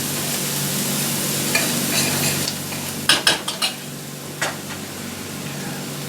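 Hamburger, bell peppers and onions sizzling in a frying pan while being stirred with a spoon. The sizzle gets quieter about two and a half seconds in. A quick run of clinks and scrapes of the spoon against the pan comes a little after halfway, then one more clink.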